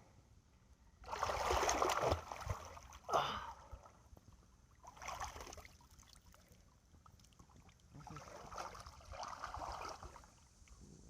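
Lake water splashing and sloshing in several separate swells. The longest comes about a second in, with a sharp splash just after it and softer ones later.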